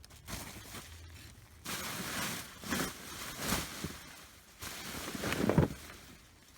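Hand digging in soil to lift sweet potatoes: scraping and rustling in three bursts of about a second each, with a few dull knocks among them.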